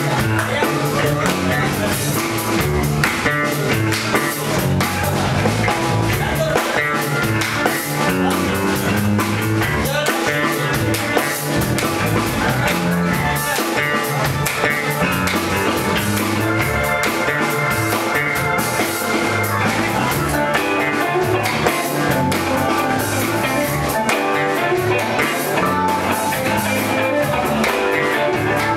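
A band playing rock-style music with electric guitar, bass and drums, steady and loud.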